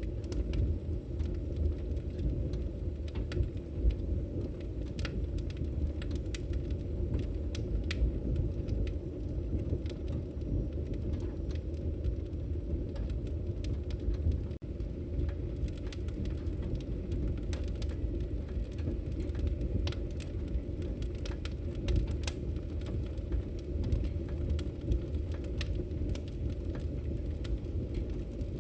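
Wood fire crackling in a fireplace: scattered sharp pops and crackles over a steady low rumble, with a brief dip in level about halfway through.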